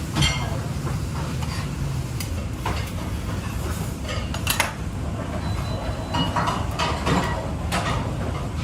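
Dishes, pots and utensils clinking and knocking now and then over a steady low rumble.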